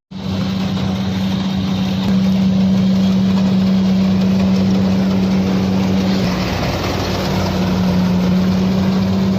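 A heavy vehicle's engine running at a steady speed with a strong, constant hum.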